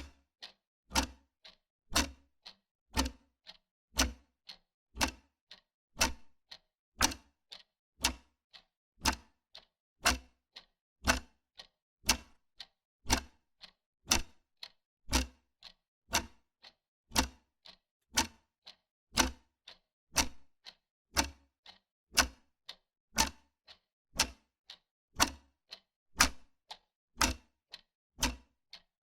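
Wall clock ticking steadily, a tick-tock of about two clicks a second, the louder click falling on each second and a softer one in between.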